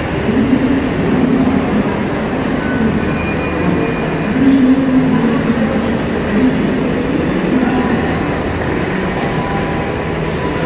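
Metro train running through the station: a steady, fairly loud rumble.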